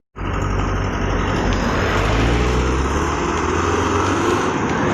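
Truck engine running as the truck drives, a steady low drone that shifts slightly in pitch midway, with road and tyre noise.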